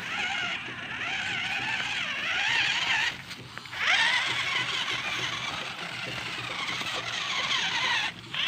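RC monster truck's motor whining as it is driven, the pitch rising and falling with the throttle. It drops out briefly about three seconds in and again near the end, then winds back up with a quick rising whine.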